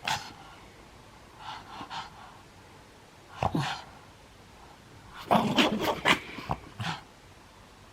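A pug's breathing noises and short grunts while playing, in separate bursts with quiet between, the loudest cluster a little past the halfway point.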